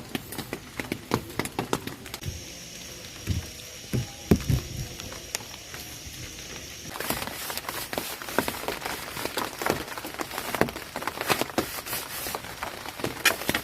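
Rain on a tent: scattered drops tapping sharply on the fabric over a steady hiss. About seven seconds in the rain suddenly becomes a denser, brighter hiss.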